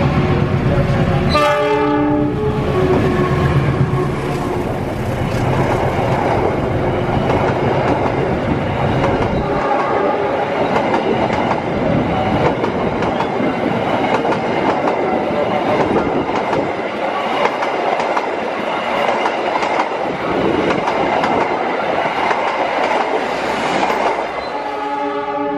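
A CC 206 diesel-electric locomotive passes with its engine running and gives a short horn blast about a second in. A long train of passenger carriages then rolls by with steady wheel-on-rail noise and clicks over the rail joints. Another horn blast sounds near the end.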